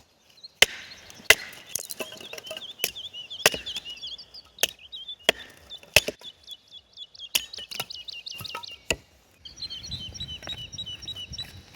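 Wood being chopped: sharp, irregular strikes of a blade into wood, roughly one a second. A small songbird chirps in quick repeated notes behind the strikes.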